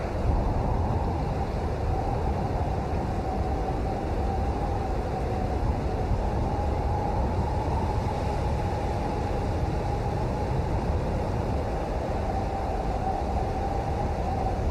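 Steady rain: an even, unbroken rushing noise, heaviest in the low end.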